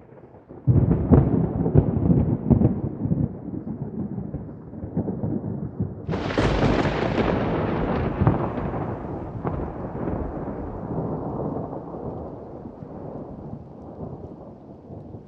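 Thunder: a sudden crackling rumble starts about a second in, then a sharper, brighter thunderclap breaks around six seconds in and rolls on, fading slowly.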